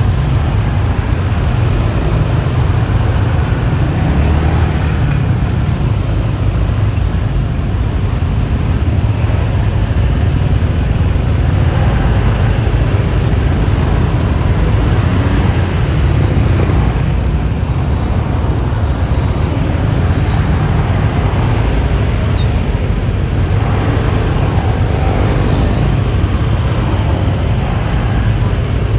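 Riding on a Yamaha Lexi LX 155 scooter: a steady, loud low rumble of wind on the microphone mixed with engine and road noise, with other traffic passing now and then.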